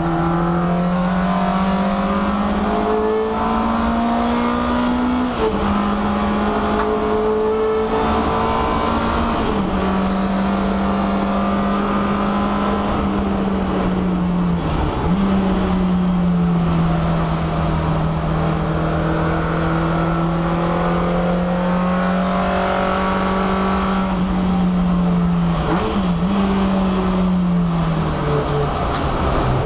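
Peugeot 306 race car's four-cylinder engine heard from inside the stripped cabin at racing speed, its note climbing and dropping sharply with upshifts about five and nine seconds in. It then runs steadily at high revs, dips briefly twice, and falls in pitch near the end as the car slows.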